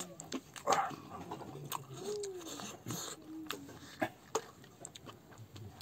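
Close-miked mouth sounds of a person eating rice by hand: wet chewing and lip smacks, with irregular small clicks and a short murmur in the throat now and then.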